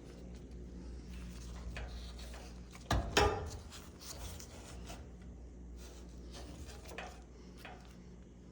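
Scattered light clicks and one louder knock about three seconds in, over a steady low hum.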